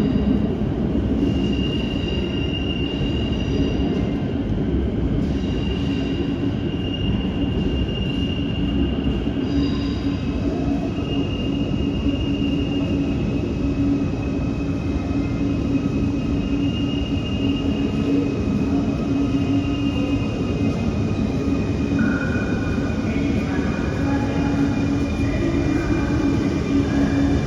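Quito Metro train running on the rails: a steady rumble and hum, with high-pitched wheel squeals that come and go, and a few lower whining tones near the end.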